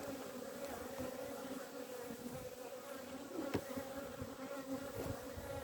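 Honeybees humming steadily around an opened hive, with a faint click about three and a half seconds in.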